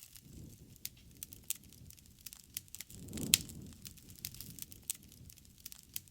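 Wood fire crackling with many irregular sharp pops over a soft low rush of burning. About three seconds in the low rush swells and the loudest pop snaps.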